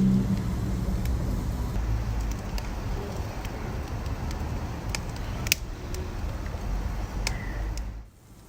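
Wood fire burning with a steady low roar and a few sharp crackling pops; the sound drops away suddenly near the end.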